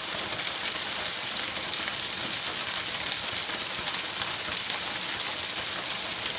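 Waterfall rushing, a steady hiss of falling and splashing water that holds at a constant level.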